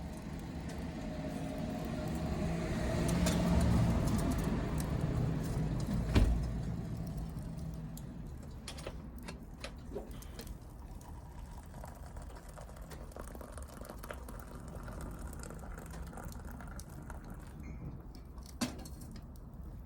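A motor vehicle's engine swells and fades as it passes. A sharp knock comes about six seconds in, then scattered small clicks.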